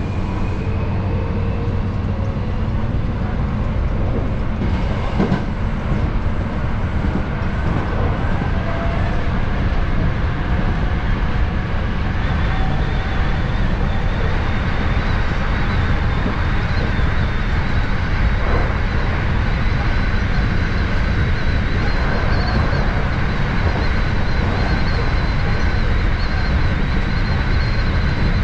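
Hankyu 7000 series electric train running, heard from behind the driver's cab: a steady rumble of wheels on rail and running gear. A thin, high, steady whine joins about twelve seconds in.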